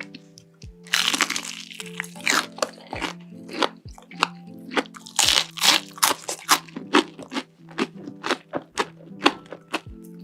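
Crunching as someone bites into and chews crunchy food coated in cheese sauce: many sharp crunches in quick succession from about a second in. Background music with steady held notes plays underneath.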